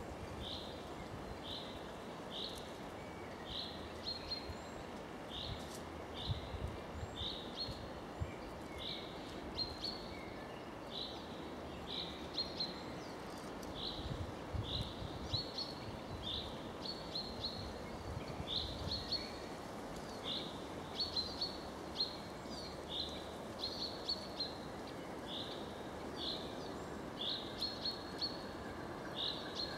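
A small songbird calling one short high chirp over and over, a bit more than once a second, sometimes in quick pairs, over a steady hiss of forest ambience.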